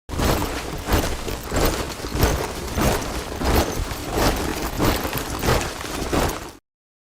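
A troop of soldiers marching in step, their boots striking together about every 0.6 seconds over a steady shuffle of many feet. It cuts off abruptly about half a second before the end.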